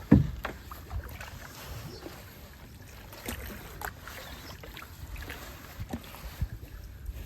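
Paddling in a kayak: a hard knock right at the start, then scattered lighter knocks and splashes over a low rumble.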